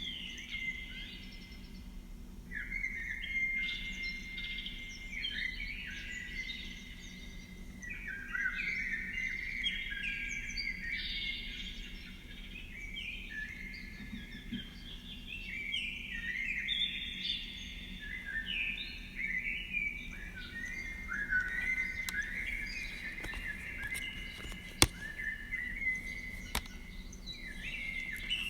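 Birds singing and chirping, several calls overlapping without a break, over a faint low hum. A few sharp clicks come near the end, one of them briefly the loudest sound.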